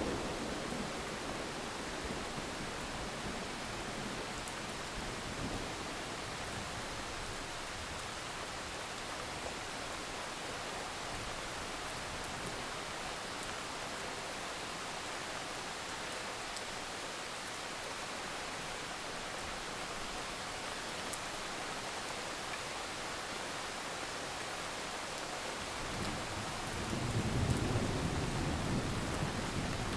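Steady hiss of rain in a thunderstorm, with a low roll of thunder swelling in near the end.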